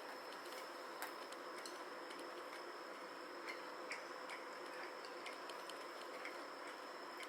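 Faint, irregular light clicks over a steady low hiss with a faint high whine.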